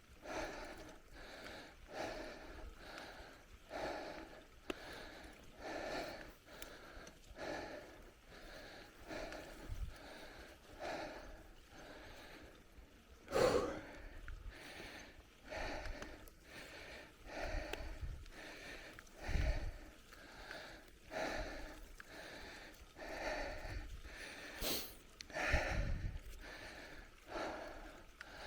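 A cyclist breathing hard and rhythmically while pedalling, roughly one breath a second, with a few low thumps and sharp knocks from the bike going over the trail.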